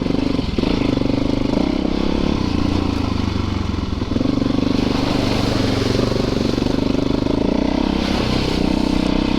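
Yamaha YZ450FX dirt bike's single-cylinder four-stroke engine running while being ridden, its pitch shifting up and down a few times as the throttle is worked.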